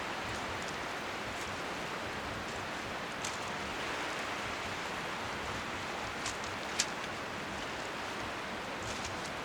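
Steady rushing noise of strong wind on the shore, with small waves lapping faintly underneath. A few light, sharp clicks come through it, the loudest about two-thirds of the way in.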